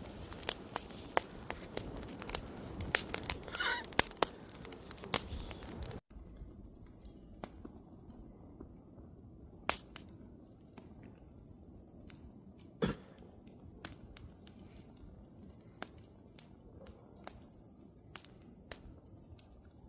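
Wood fire crackling, with frequent sharp pops and snaps. About six seconds in the level drops suddenly, and after that the crackle is softer, with only occasional pops.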